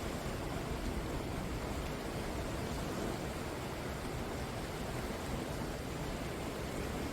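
Sea waves breaking on the shore, heard as a steady rush of surf with no single crash standing out.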